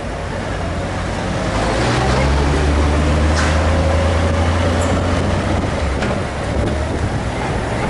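Honda Gold Wing GL1500's flat-six engine running as the motorcycle rides along, a low steady drone that builds louder over the first two seconds.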